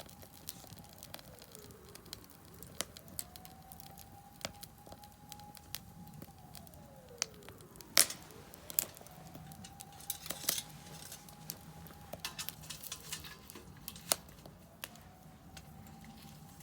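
Wood fire crackling in a Solo Stove Campfire fire pit: irregular sharp pops and snaps, one much louder pop about halfway through. Behind it a faint siren wails, slowly rising, holding and falling about every four seconds.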